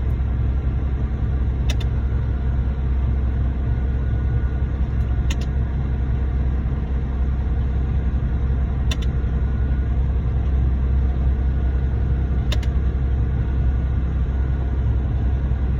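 Diesel engines of a concrete pump truck and ready-mix mixer truck running steadily at a low rumble, with a sharp click about every three and a half seconds as the pump changes stroke while pumping concrete.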